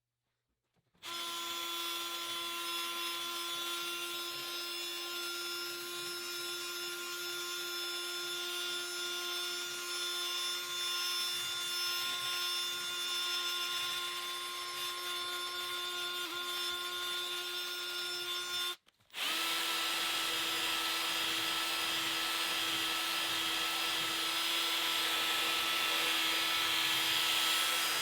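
A small electric motor, as in a power tool or vacuum used for detailing, running at a steady speed: a constant high whine over a hiss. It starts about a second in, stops abruptly for a moment about two-thirds of the way through, and starts again.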